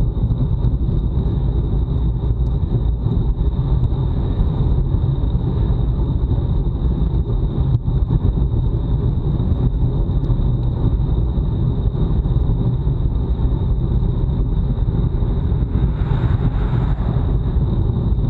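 Steady low wind rumble on a bike-mounted action camera's microphone at race speed, mixed with road and tyre noise, with a thin steady high whine above it.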